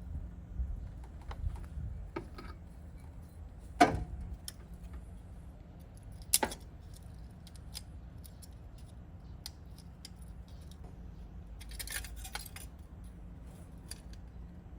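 Scattered metallic clinks and knocks of tools and parts being handled, with two louder knocks about four and six and a half seconds in and a short run of clinks near the end.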